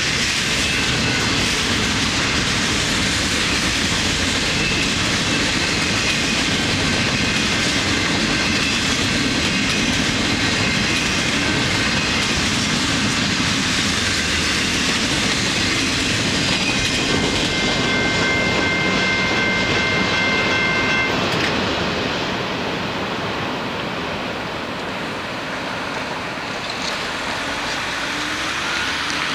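Cars of a Canadian Pacific intermodal container train rolling past, with a steady clickety-clack of wheels over the rail joints. A thin, high wheel squeal rings for a few seconds past the middle, and the sound eases a little after that.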